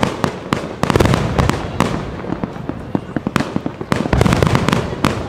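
Fireworks display: a dense, rapid crackle of many sharp pops and bangs from bursting shells, with heavier bursts about a second in and again about four seconds in.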